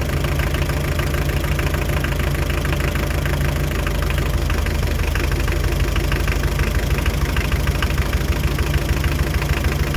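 Hyundai Terracan's 2.5-litre D4BH diesel idling with a steady, rhythmic knock. The knock comes from a dribbling No. 4 injector.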